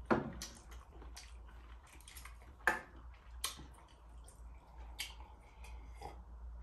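Quiet eating sounds: a scatter of short wet clicks and smacks from someone eating noodles, two of them louder near the middle.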